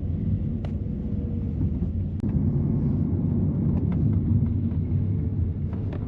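Taxi car interior while driving: a steady low rumble of engine and road noise with a few faint clicks.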